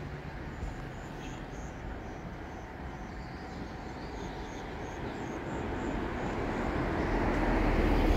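An EMU3000 electric express train approaching, its rumble growing steadily louder through the second half.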